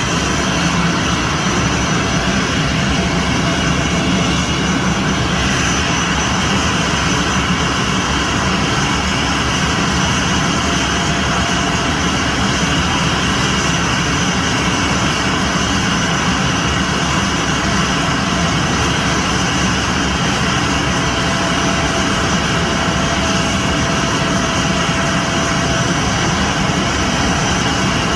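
Airbus A321's jet engines running steadily as the airliner taxis in to park: a constant whine with several high tones over a low rumble.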